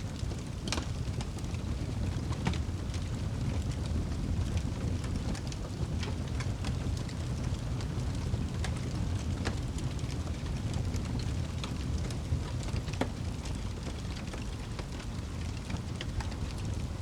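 Wood fire burning in a fireplace: a steady low rumble of the flames with irregular sharp crackles and pops throughout, a few louder snaps among them.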